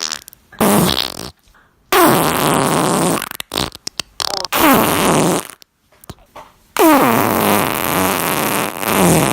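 A series of farts: about four long, raspy ones with a few short spurts between them. In several, the pitch slides downward.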